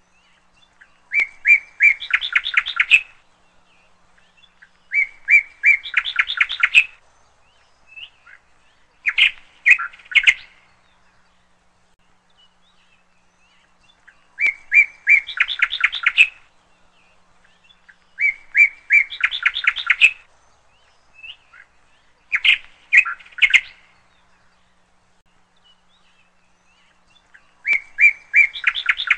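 Bird song: short phrases of a few chirps running into a quick trill, each about two seconds long, repeating about every four seconds.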